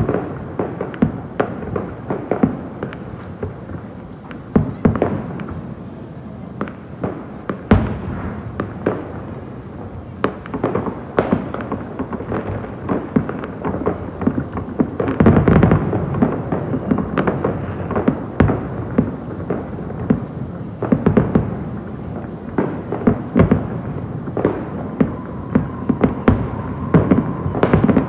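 Fireworks going off in a rapid, continuous run of bangs and crackles, with a denser, louder barrage about halfway through.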